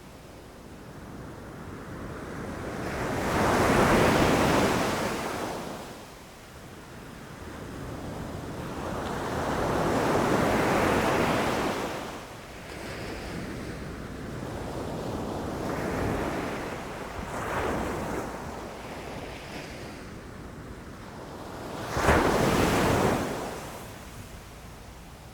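Ocean waves breaking and washing in, the surf swelling and ebbing in surges every few seconds. About three-quarters of the way through, one wave crashes in more sharply and louder than the rest.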